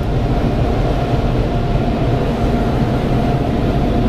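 Car-wash blower dryers blasting air over the car, heard from inside the cabin: a loud, steady rush with a low rumble and a thin steady whine running through it.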